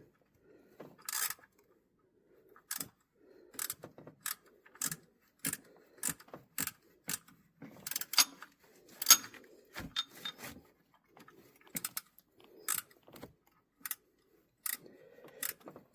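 Irregular light clicks and clinks of small metal tools and parts being handled, over a faint rustle.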